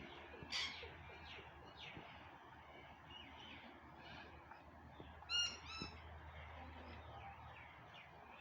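Parrot calling in a string of short calls. One sharp call comes about half a second in, and the loudest, a pair of calls, about five and a half seconds in.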